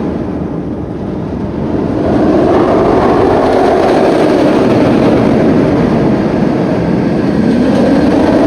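Roller coaster train rumbling along its track in a loud, continuous roar that swells about two seconds in and holds steady.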